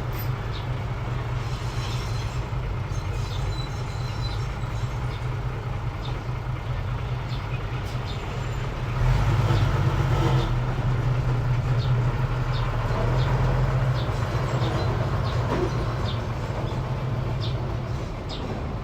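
Mini bulldozer's engine running steadily, louder from about nine seconds in, with light scattered clicks over it.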